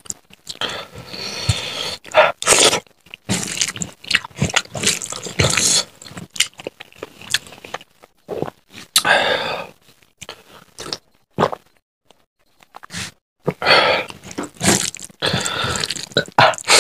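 Close-miked wet chewing and lip-smacking of handfuls of rice and curry eaten by hand, in irregular bursts with a few pauses.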